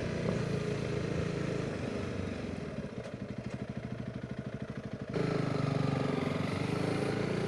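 Honda CRF300 Rally's single-cylinder four-stroke engine, heard from the rider's seat with wind noise: the engine note drops off, chugs at low revs with an even pulse for about two seconds, then picks up suddenly again about five seconds in.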